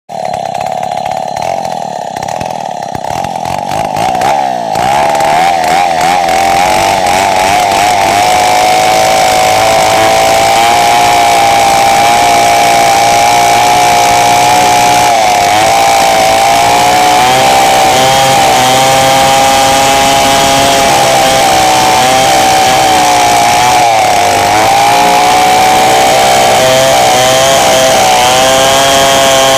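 Two-stroke chainsaw running at high revs while cutting merbau timber. Its note wavers for the first few seconds, then holds steady, sagging briefly twice under load.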